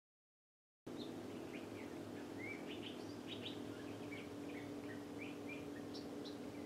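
Small birds chirping, many short high calls heard faintly over a steady low hum, starting about a second in after silence.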